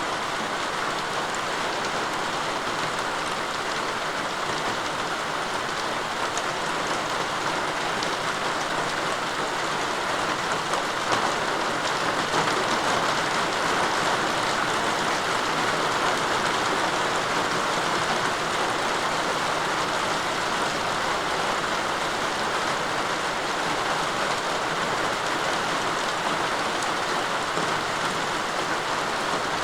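Steady rain falling, an even hiss of drops on surfaces with scattered individual drop ticks, growing slightly heavier about a third of the way in.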